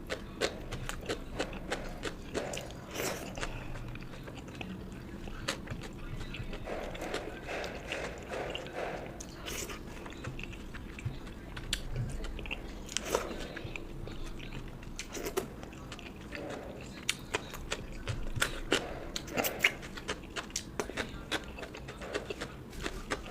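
Close-miked eating: wet chewing and lip smacks, with many small crunches and clicks as mouthfuls of rice, curry and fried food are bitten and chewed.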